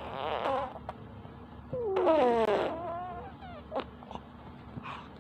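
Infant vocalising: a short high-pitched cry-like sound at the start, then a louder one about two seconds in that slides down in pitch, with a few small clicks.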